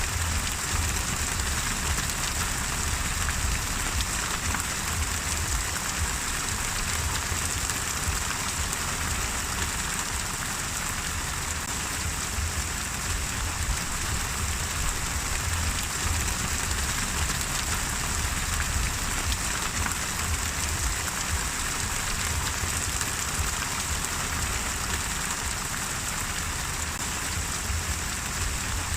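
Steady rain falling, an even hiss of drops with a low rumble beneath it, unchanging throughout.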